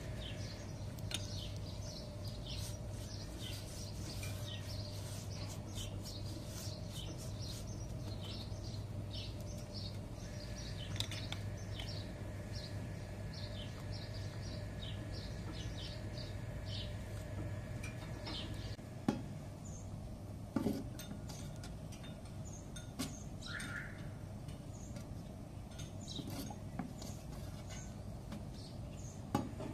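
Small birds chirping in quick, repeated short notes over a steady low hum, for roughly the first half. After that come a few light metal clinks and taps, a spoon against the iron griddle.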